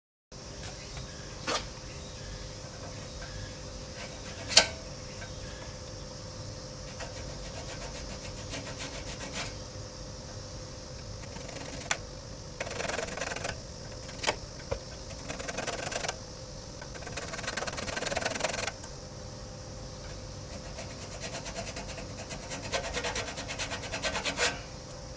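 Hand work on a motorcycle muffler: a few sharp metal clicks and knocks, the loudest about four seconds in, then several short spells of rubbing and scraping, as if parts are being worked loose or pulled out.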